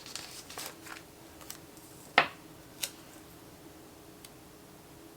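Paper stickers and planner pages being handled on a desk: soft rustles and ticks, then a sharp click a little over two seconds in and a smaller one just under a second later.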